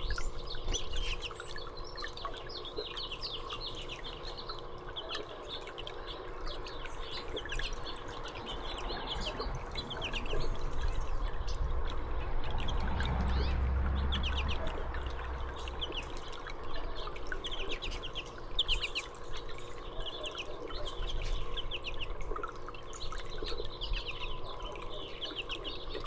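Small songbirds chirping and twittering continuously, many quick short calls overlapping. A low rumble swells for several seconds midway through.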